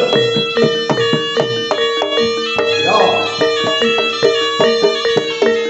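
Javanese jaranan ensemble music: pitched gamelan tones struck in a quick, regular pattern over one held steady tone, with hand-drum strokes and a few gliding notes.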